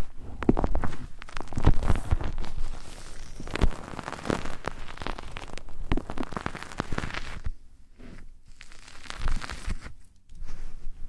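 Close-up rubbing and scratching on a microphone, the crackling friction of ear-massage ASMR. It is dense at first and turns to quieter, scattered rubs about two thirds of the way in.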